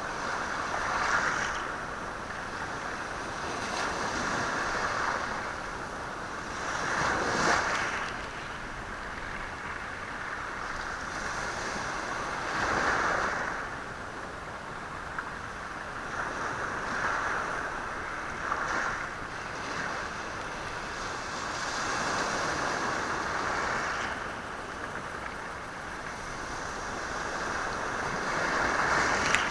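Sea waves surging onto a rocky shore and washing back over the stones, swelling and fading every few seconds.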